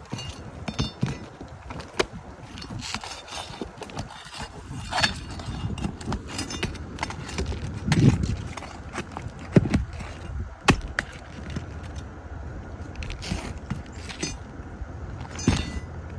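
Asphalt shingles being pried loose from their sealant strips: a run of irregular cracks, scrapes and knocks, with a few heavier thuds about halfway through.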